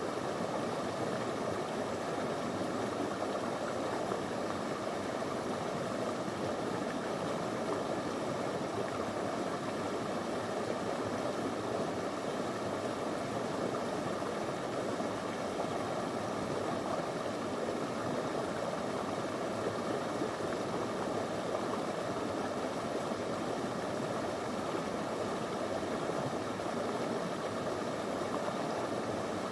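Small river flowing over stones: a steady, even rush of water.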